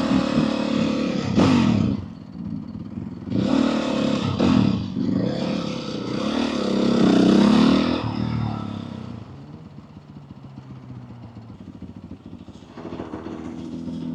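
Motorcycle engines revving, the pitch climbing and falling in several surges. The sound dies down about nine seconds in and picks up again near the end.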